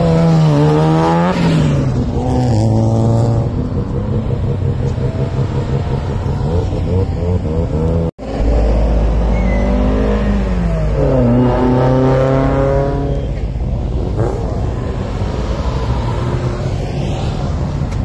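Classic Japanese cars' engines revving and accelerating away, the pitch climbing and falling through several revs. The sound cuts out for an instant about eight seconds in.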